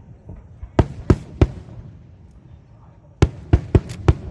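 Aerial fireworks shells bursting with sharp, separate bangs: three about a second in, then a quick run of five near the end.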